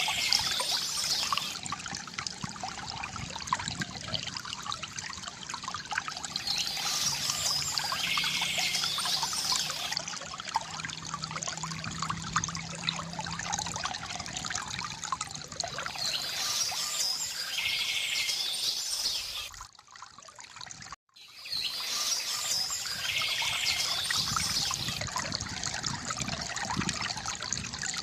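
Water trickling and pouring from a bamboo fountain, with birds chirping in spells every several seconds over it. The sound drops out almost completely for about a second, roughly twenty seconds in.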